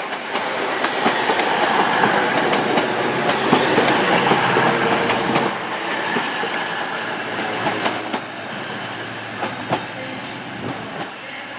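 Class 220 Voyager diesel multiple unit running into the platform and slowing. Its wheels click over the rail joints. It is loudest about three to four seconds in and then fades, with a thin high squeal of wheels or brakes midway.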